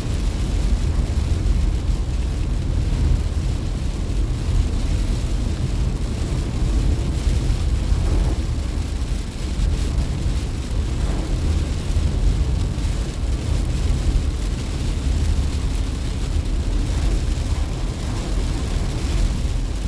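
Steady low rumble of a car driving, heard from inside the cabin: engine and tyre noise on a wet road.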